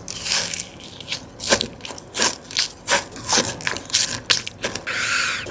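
Close-miked crunchy biting and chewing of a Dubai chewy cookie: irregular sharp crackles, several a second. A steadier rustling noise comes in near the end.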